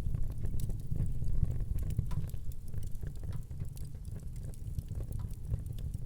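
Fire burning in a fireplace: a steady low rumble of flames with frequent sharp crackles and small pops scattered throughout.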